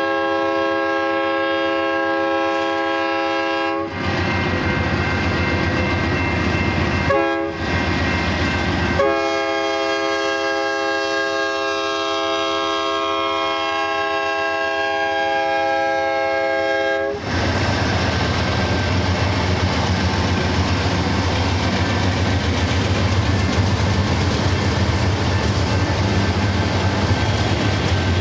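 BNSF diesel locomotive horn sounding three blasts: a long blast, a short blast about seven seconds in, and a long blast lasting about eight seconds. After the horn stops, the locomotives' diesel engines carry on with a steady low drone and rail noise as they work hard in notch 8 up the grade.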